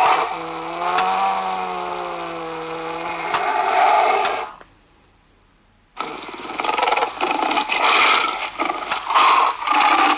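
Sound chip of a 2000 Animal Planet animatronic lion plush playing through its small speaker. First comes a pitched, bending roar that sounds more like a cow mooing, lasting about four seconds. After a short pause comes a rough, noisy lion growl.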